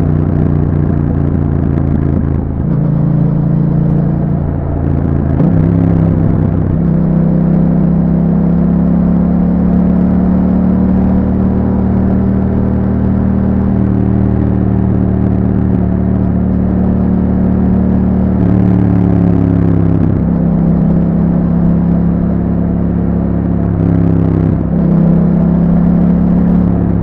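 A 2021 Yamaha MT-07's parallel-twin engine running under way through an Akrapovic exhaust with a YAHOM dB killer. The engine note holds steady for long stretches and steps up or down in pitch several times, mostly in the first seven seconds and again in the last few.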